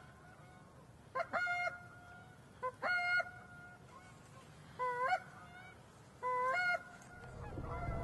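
Goose honking: four separate honks, each breaking sharply upward into a short held note.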